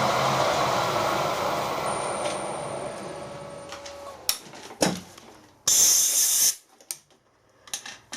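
Drill running down and fading over about four seconds after the bit has pushed through the broken stud, followed by a few light metal clicks and a short, sharp hiss about six seconds in.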